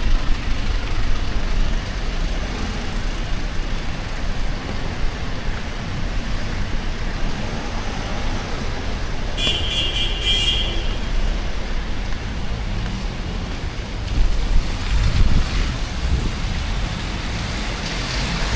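Steady city street traffic: cars and buses running past in a constant noisy rumble. About halfway through, a brief high-pitched beep sounds for about a second.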